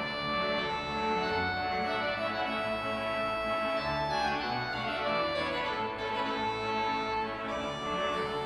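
A large 189-rank Ruffatti pipe organ playing sustained, full chords that change every second or two.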